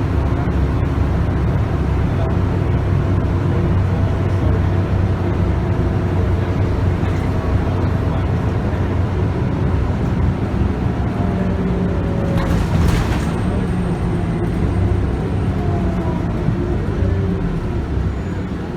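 Onboard sound of a Scania bus's 9.3-litre five-cylinder DC9 diesel and ZF Ecomat automatic transmission pulling the bus along, the engine tone drifting slowly up and down. A short burst of hiss comes about two-thirds of the way through.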